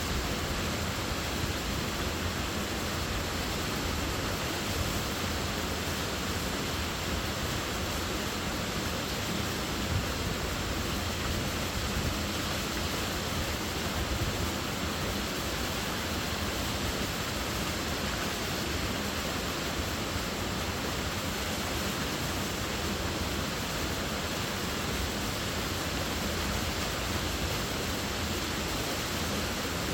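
Waterfall rushing steadily, a dense, even roar of falling and splashing water.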